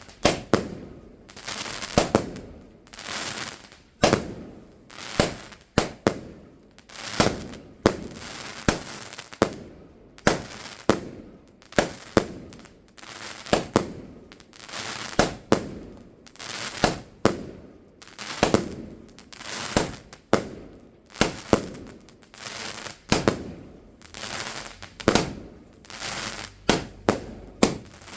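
Fireworks going off in a long series of sharp bangs, roughly one a second, each trailing off in a short crackle; the bangs come quicker near the end.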